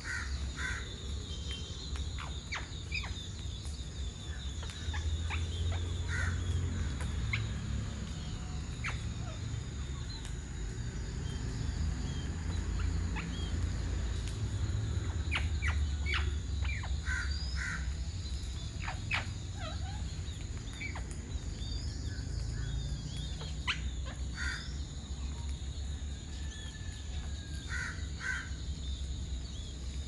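Birds calling in short, scattered sharp notes, some in quick pairs, over a steady high-pitched whine and a low rumble.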